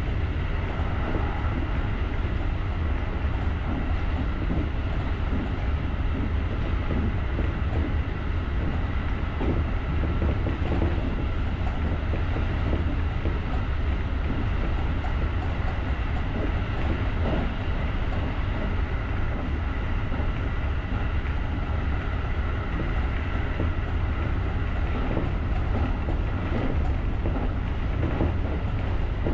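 JR rapid electric commuter train running steadily along the line: a continuous low rumble of wheels on rail, with faint ticks from the track and a faint steady high tone over it.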